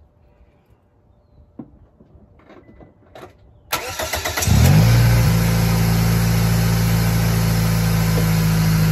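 Toyota VVT-i car engine started: a few faint clicks, then a brief crank a little under four seconds in, and the engine catches about half a second later with a short flare before settling into a steady idle.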